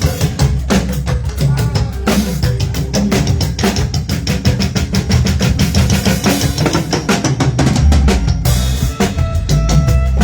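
Live drum kit playing a steady groove, with bass drum, snare and rimshots over a moving bass line, during a band's sound check; held keyboard-like notes come in near the end.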